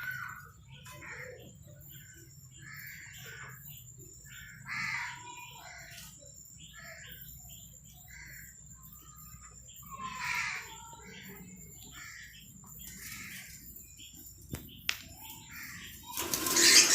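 Parrots squawking in a run of short harsh calls, each about a second apart, loudest about five and ten seconds in. A loud noisy burst comes right at the end.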